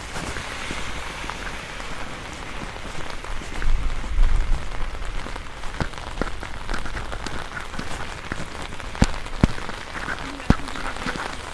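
Heavy rain pattering steadily on a large umbrella overhead, with scattered sharp drop impacts, a few louder ones in the second half, and a brief low rumble about four seconds in.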